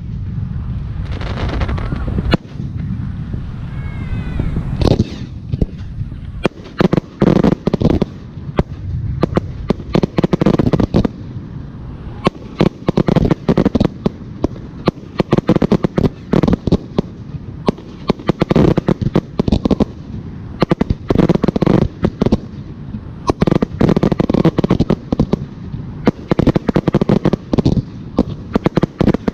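Aerial fireworks shells bursting in a dense, rapid barrage of bangs and crackles. It opens with a few seconds of rumbling, and a faint rising whistle near the start.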